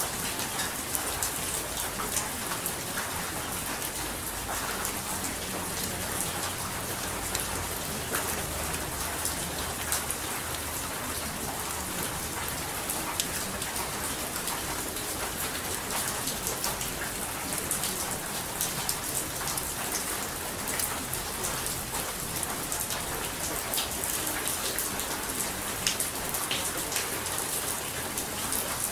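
Steady rain falling on a surface: an even hiss scattered with many small, sharp drop ticks.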